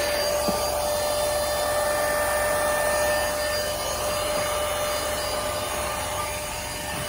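Airmoto handheld car vacuum cleaner running at full speed while vacuuming a car floor: a steady motor whine over rushing air.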